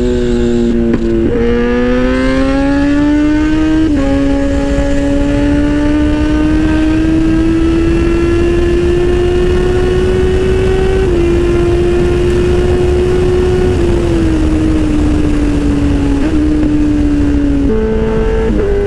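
Kawasaki Z800 inline-four engine pulling under throttle. Its note climbs over the first few seconds with a couple of gear changes, holds fairly steady, then drops in steps near the end. Heavy wind rumble on the microphone underneath.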